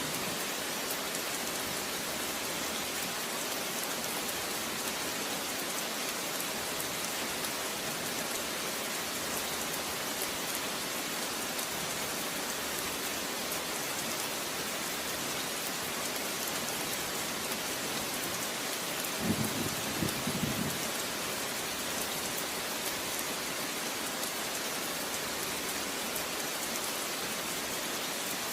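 Steady rain falling, an even hiss of many drops on a surface. About two-thirds of the way through, a brief low rumble rises over the rain for a second or two.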